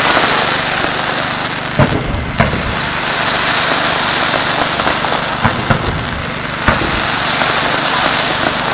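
Fireworks display: a loud, continuous crackling hiss with about five sharp bangs scattered through it.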